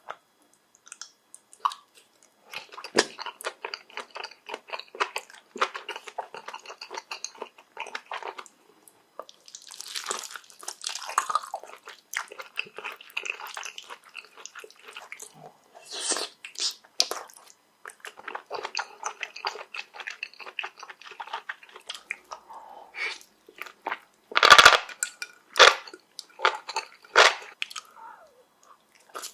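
Close-miked chewing of cooked mushrooms: wet, crackly bites and mouth sounds, with the loudest crunches coming in a cluster about three-quarters of the way through.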